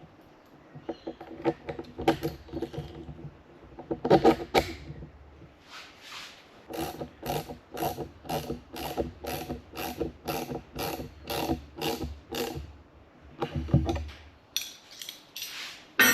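Ratchet wrench being worked in repeated strokes, a run of about a dozen even ratcheting clicks at roughly two a second in the middle, with scattered clicks and knocks around it.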